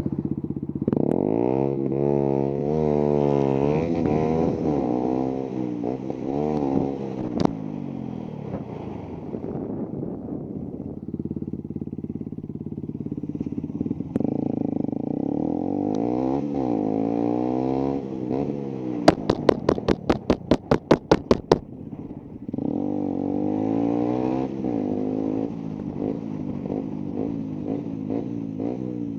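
Motorcycle engine accelerating hard several times, its pitch climbing and dropping back as it shifts up through the gears. About two-thirds of the way through comes a rapid run of about a dozen sharp clicks.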